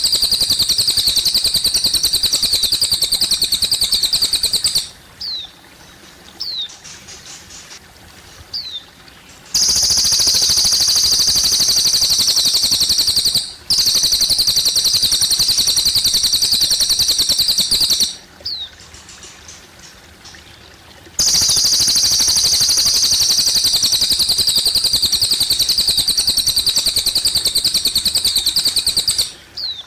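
Cililin bird singing long, high-pitched, rapidly pulsing trills of several seconds each, three bouts with short pauses between. In the pauses a few brief falling chirps are heard over the steady trickle of water.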